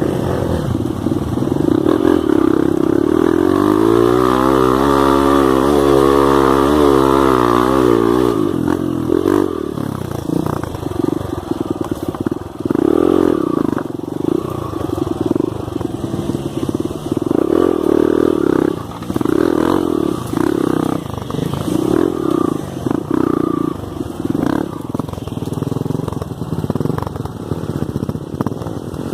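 Off-road trail motorcycle engine revving hard, its pitch sweeping up and down for several seconds. It then runs in short repeated throttle bursts about once a second.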